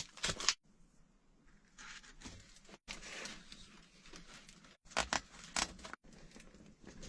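Handling noises of a cardboard range hood being fastened in place: faint rustling and scraping, with a few short, sharp bursts near the start and around five seconds in.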